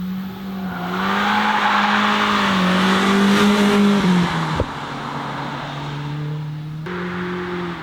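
BMW M3 E30's four-cylinder S14 engine at high revs as the car passes close by. It is loudest three to four seconds in, then drops in pitch and level, with one sharp crack just after. The engine note then runs on steadier and fainter as the car goes away.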